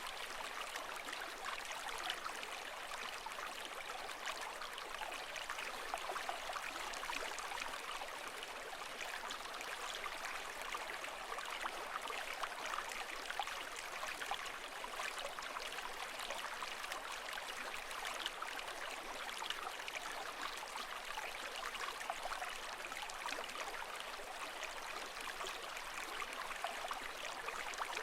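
Water running steadily: an even rush of water, full of small trickling and splashing flecks, with no rise and fall of waves.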